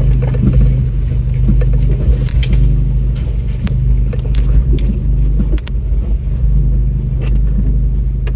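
Off-road truck engine running steadily at low speed while the vehicle crawls over a rough trail, heard from inside the cab. Frequent knocks, clicks and rattles come from the body and loose items jostling.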